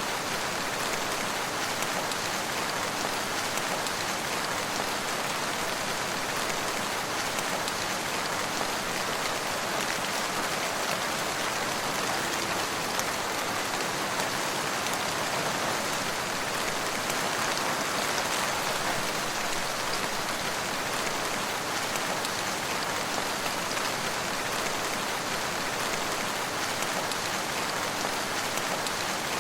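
Steady rain falling on surfaces, an even hiss of many drops with no thunder or breaks.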